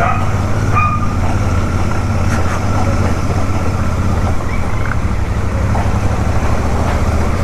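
Royal Enfield Super Meteor 650's parallel-twin engine running steadily, carrying a noise that the rider says has still not stopped and likens to something rubbing as the bike runs.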